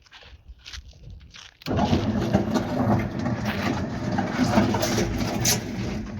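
A machine motor starts abruptly about a second and a half in and runs loudly and steadily, with a low hum and a dense rattling churn.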